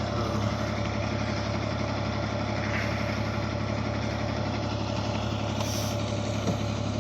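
A large vehicle's engine idling steadily, an even low drone with no changes.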